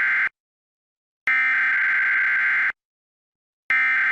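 Electronic alarm tone sounding in repeated blasts of about a second and a half, each steady in pitch and cut off sharply, with about a second of silence between them.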